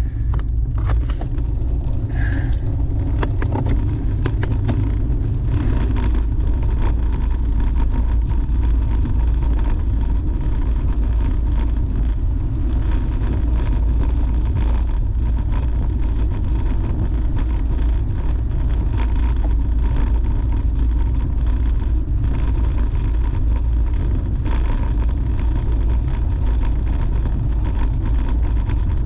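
Steady low wind rumble on the bike-mounted camera's microphone from a road bicycle riding along, with tyre noise mixed in. A few sharp clicks near the start.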